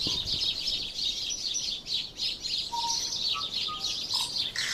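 Birds chirping rapidly and continuously in a dense high-pitched chatter, with a few short whistled notes in the middle.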